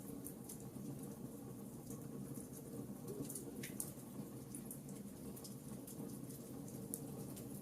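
Fireplace fire crackling: many small, irregular sharp pops and snaps over a low, steady rush of the flames.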